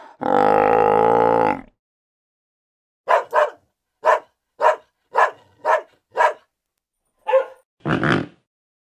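A long drawn-out animal call, then, after a pause, a dog barking: about nine short barks roughly half a second apart.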